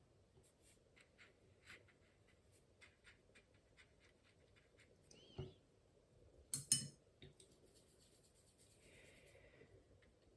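Small taps and scratches of a watercolour brush working paint, with two sharp clinks a little past the middle.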